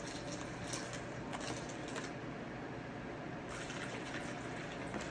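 Milk being poured from a jug into a bowl, with a few faint clicks.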